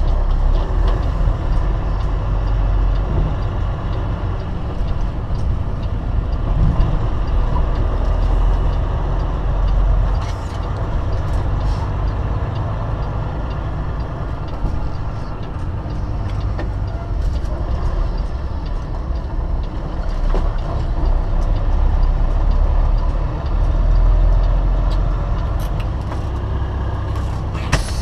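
Semi-truck engine and road noise heard from inside the cab while driving, a steady low rumble, with a few faint clicks here and there.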